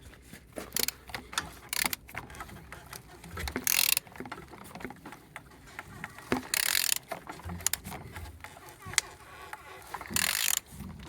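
8V41 engine being turned over by hand with a ratchet wrench: ratchet clicks and mechanical clunks, with three short hissing rushes spread through. It is turning freely, a check of free rotation and compression.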